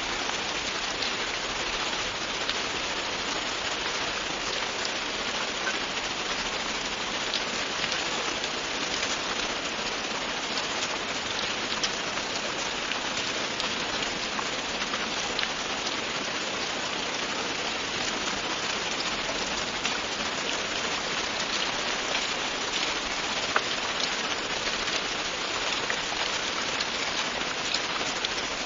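Steady, continuous rainfall, an even hiss with scattered individual drops ticking on a surface.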